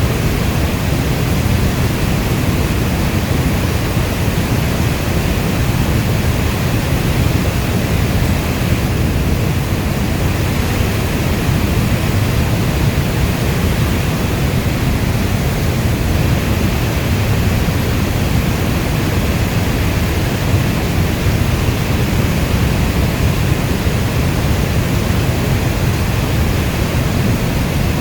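Steady rainstorm noise, an even rushing hiss weighted toward a deep low rumble like brown noise, with no single drops or breaks standing out.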